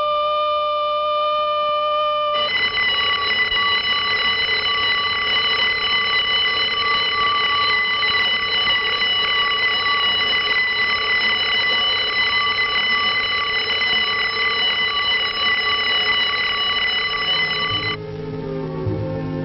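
A steady alarm sound from a film soundtrack. A clear held tone changes about two seconds in to a harsher, rattling alarm ring that holds one pitch, then cuts off near the end as music with moving notes comes in.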